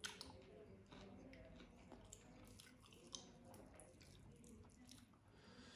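Faint, close-miked wet chewing of food by a person: soft repeated mouth clicks and smacks as paratha and curry are chewed.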